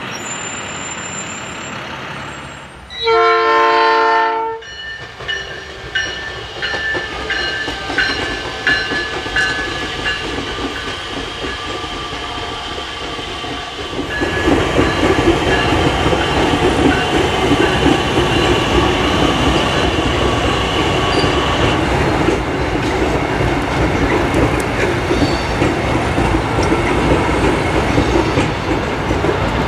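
South Shore Line electric multiple-unit commuter train: one horn blast about three seconds in, then the train approaches with high steady tones and clicks of wheels over rail joints. Just before halfway it changes to a close pass of the bilevel cars, a steady rumble with clickety-clack of wheels over the joints.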